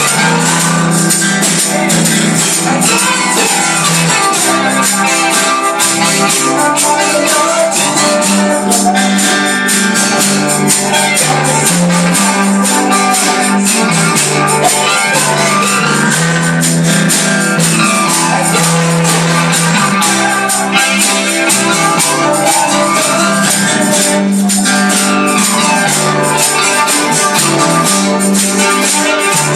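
Live gospel band playing an instrumental passage, with a tambourine shaken in a steady rhythm over the other instruments.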